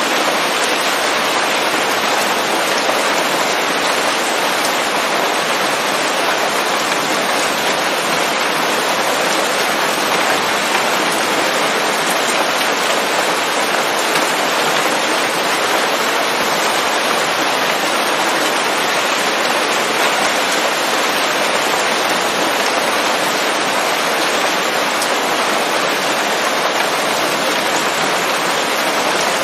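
Steady rain falling on leaves in a forest, an even hiss of drops with no thunder.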